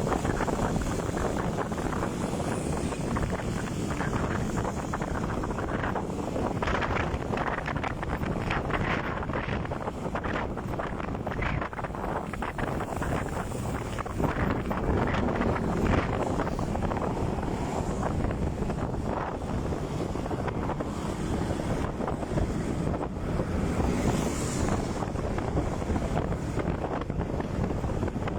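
Wind buffeting the microphone on a moving motorcycle: a steady rush over a low rumble of engine and road.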